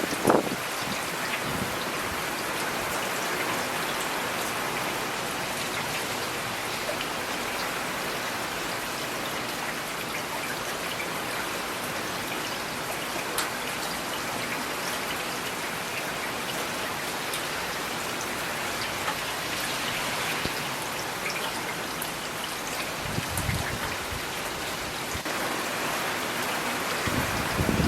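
Steady rain falling on hard surfaces, with single drops ticking here and there. A few short low rumbles come through, just after the start and again near the end.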